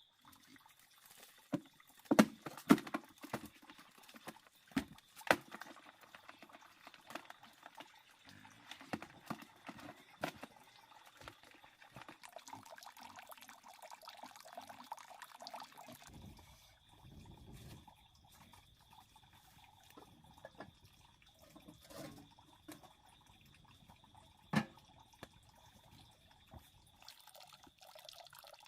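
Water splashing and dripping in irregular bursts, as if something is moved through shallow water; the sharpest splashes come a couple of seconds in and again near the end.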